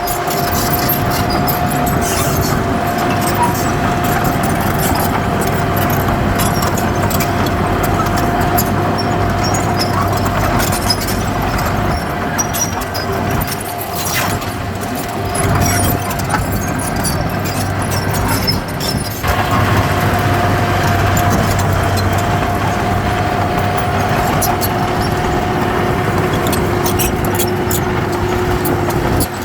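Heavy diesel earthmoving machinery running steadily, with a steady whine over the engine noise that fades for a few seconds in the middle and then returns.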